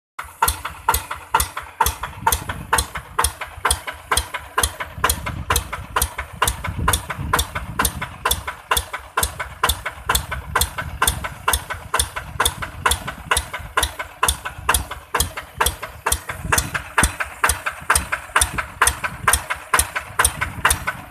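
Yanmar 150 DI tractor's direct-injection diesel engine idling, a steady, slow, even knocking of about two and a half beats a second over a low rumble.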